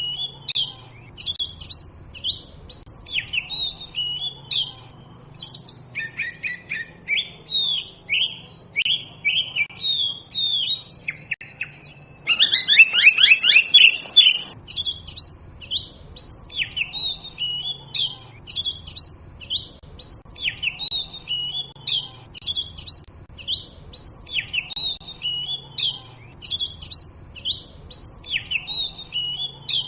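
Oriental magpie robin singing: a continuous run of short, varied whistled phrases, high and rich. About twelve seconds in comes a loud, harsh rattling call lasting about two seconds, before the whistled song resumes.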